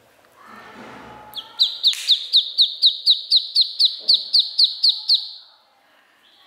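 A duckling peeping: a fast, even run of about fifteen high, slightly falling peeps, about four a second, lasting nearly four seconds. A soft rustle comes just before the peeps start.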